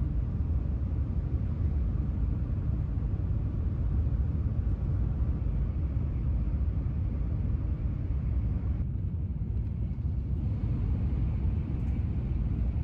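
Steady low rumble of a train in motion, cutting off suddenly at the end.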